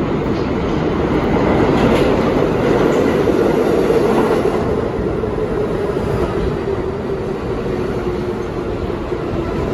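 R42 subway train pulling into a station: a loud rumble of wheels on rails that is loudest a few seconds in and then eases off, with a faint whine that falls slightly in pitch as the train slows.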